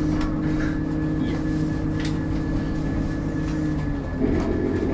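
ScotRail diesel passenger train running, heard from inside the carriage: a steady engine and running drone with a held hum, with a few light clicks. About four seconds in, the hum's pitch changes.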